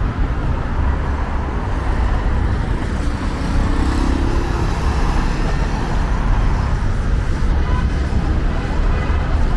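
Steady street traffic noise: cars running past, a continuous low rumble of engines and tyres.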